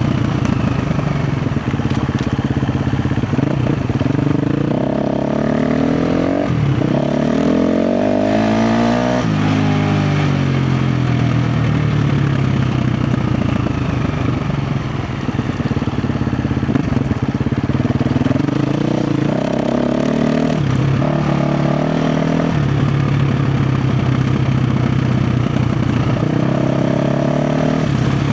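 KTM 350 XC-F's single-cylinder four-stroke engine under way off-road, rising in revs about five seconds in and falling back after nine, then running at steadier throttle with another rise and fall around twenty seconds in.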